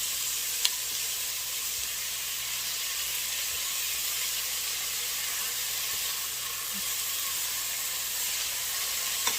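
Chopped carrots, celery, onions and garlic sizzling steadily in chicken drippings in a pot as they cook down. A single sharp click sounds about half a second in, and another near the end.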